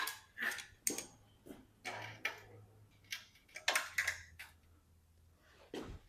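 Irregular light clicks and knocks, about a dozen, as clamps are fitted and tightened and a 16-gauge sheet-metal piece is clamped down for bending.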